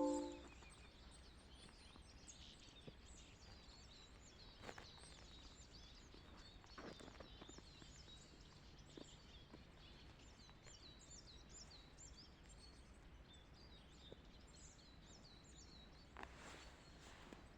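Small songbirds chirping faintly, a scatter of many short high chirps. A plucked string note rings out and dies away in the first moment.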